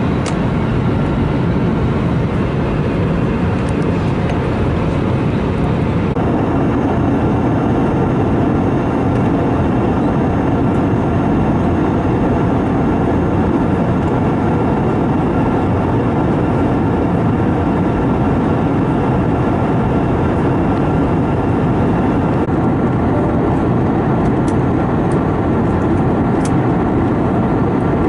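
Cabin noise of an Airbus A321neo in cruise flight: a steady drone of engines and airflow, with faint steady tones running through it.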